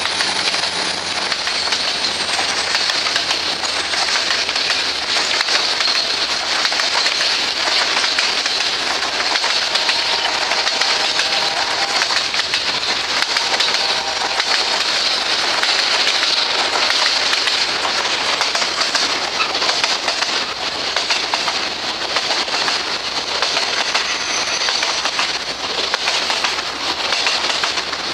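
Freight train of container flatcars rolling past, steel wheels clattering and rumbling over the rails in a steady, loud rush. The diesel locomotives' low hum fades out in the first few seconds.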